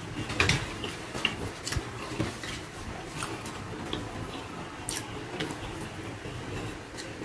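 Close-up eating sounds: chewing and lip smacks with irregular sharp wet clicks, from a person eating rice and saucy meat by hand.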